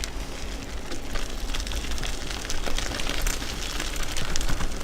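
Bicycle rolling over a rough path: crackling, gritty tyre noise with fine clicks and rattles, and a steady low rumble of wind on the microphone.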